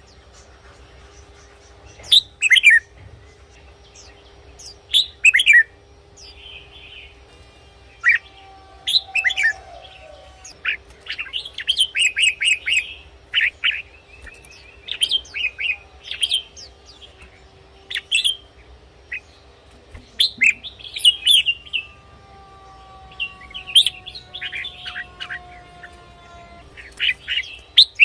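Red-whiskered bulbul singing: short, loud whistled phrases every second or two, with a quicker run of notes about halfway through. A faint steady hum lies underneath.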